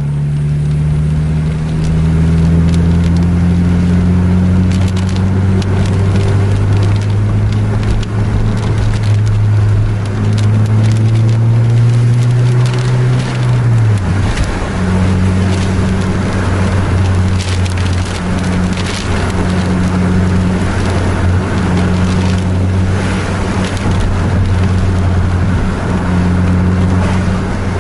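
Vehicle engine heard from inside the cab, rising steadily in pitch as it accelerates, then dropping abruptly about 14 seconds in at a gear change and running steady after. Scattered crackling clicks and road noise sit over it throughout.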